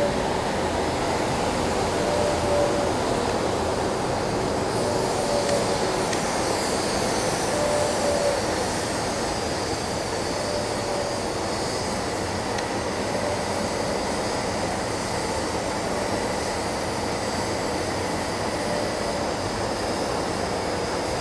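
Steady industrial noise from a Ventec bag-filter dust collector running at start-up. A faint short tone recurs about every two and a half seconds.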